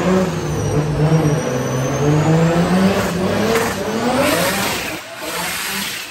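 Car engine running under load on a chassis dyno, holding steady at first, its pitch rising as the revs climb through the middle seconds, then dropping back about five seconds in.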